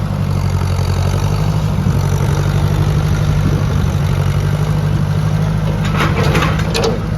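Ford 601 Workmaster tractor's gas engine running steadily, with a brief rattly clatter near the end.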